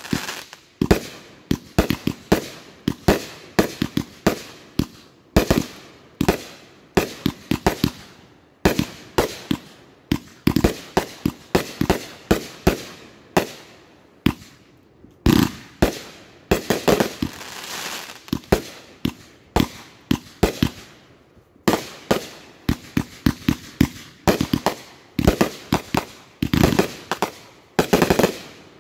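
Chain-fused consumer aerial firework cakes firing shot after shot, a few sharp reports a second overlapping one another. A little past halfway the reports merge into a couple of seconds of continuous rushing crackle. The last shot comes just before the end.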